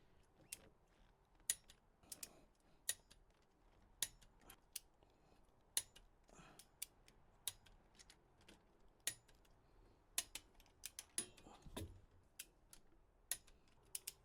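Torque wrench ratcheting and clicking as LS cylinder head bolts are tightened on the first 25 ft-lb pass: a string of faint, sharp, irregular clicks, about one or two a second.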